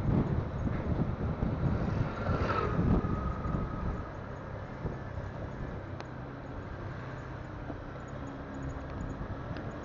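A motorcycle engine runs while riding, mixed with wind rushing over the phone's microphone. The wind is louder and gustier for the first few seconds, then settles to a quieter, steady hum.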